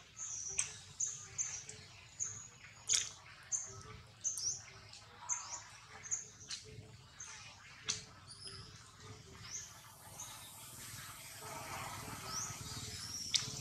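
Birds chirping: a quick run of short, high chirps, with a few sharp clicks in between. A soft hiss builds over the last few seconds.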